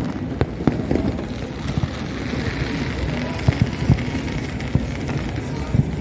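Fireworks going off: irregular, scattered bangs and pops over a steady background din.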